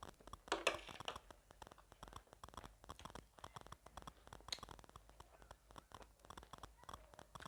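Close-miked chewing of spicy gilo chatpate: a steady run of small wet mouth clicks and crackles, louder for a moment about half a second in.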